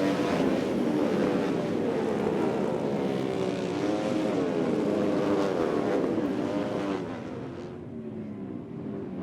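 Racing motorcycle engines running, several pitches rising and falling over one another, the sound dropping away about seven seconds in.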